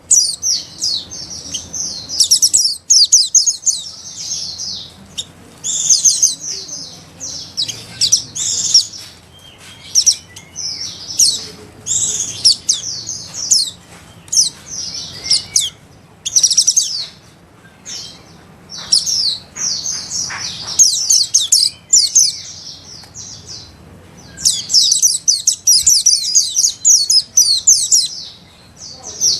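White-eyes (pleci) singing: rapid, high-pitched twittering chirps and trills in bursts of a second or two with short pauses, busiest near the end. This is the fast chattering song (ngeriwik) used to tutor captive white-eyes.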